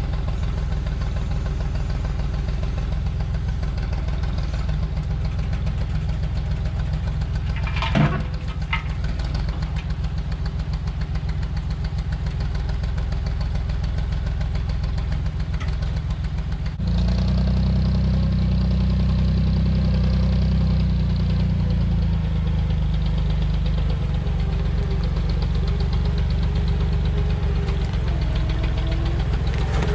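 Massey Ferguson backhoe's engine running steadily. About 17 seconds in it suddenly gets louder and heavier, as when the machine takes a load. A single short sharp knock comes about 8 seconds in.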